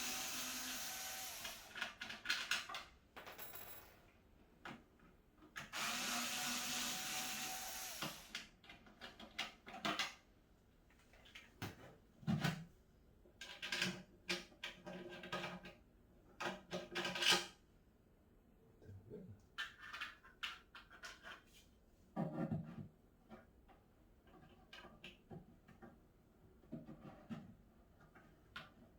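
An electric drill-driver runs in two bursts, one at the start and one from about six to eight seconds in, while a cat tower is being screwed together. Between and after the bursts come scattered knocks and clatter of parts being handled.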